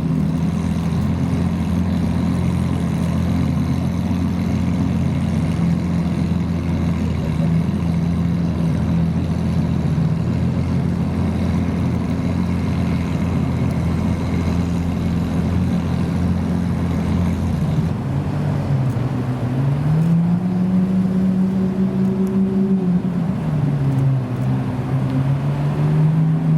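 Supercar engine running with a steady low note; about two-thirds of the way in its pitch climbs and holds, then drops away and climbs again near the end.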